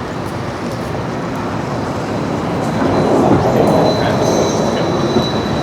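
Busy street traffic noise. A large vehicle passes close, growing louder about three seconds in, with a thin steady high whine over it.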